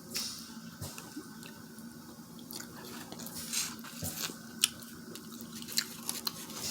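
Wet eating sounds from a seafood boil: scattered soft clicks, smacks and squelches of chewing and handling sauce-covered seafood, over a faint steady hum.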